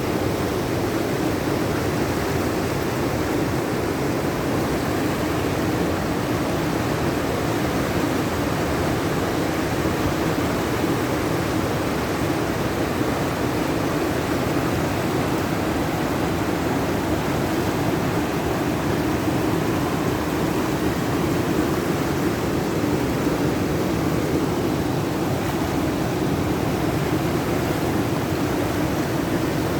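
River in flood rushing steadily, an unbroken noise of fast-moving high water.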